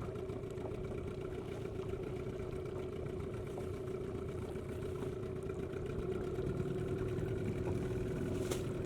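Dinghy outboard motor running steadily, a little louder over the last few seconds.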